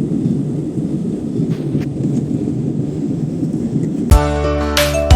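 Steady low rumble of an airliner cabin on the ground. About four seconds in, a sharp click and then music with sustained tones starts over the cabin speakers, ahead of the safety briefing.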